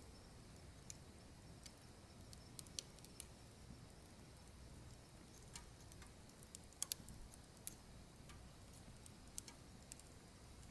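Firewood burning, crackling with irregular sharp pops and ticks over a low steady rumble; the loudest pops come in a quick cluster about seven seconds in.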